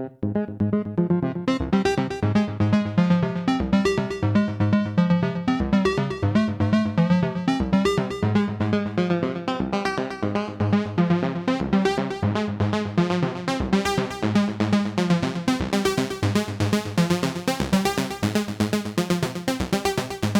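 Roland SH-09 analog monophonic synthesizer playing a fast step-sequenced line of short repeated notes. The tone grows steadily brighter as the filter opens, brightest near the end.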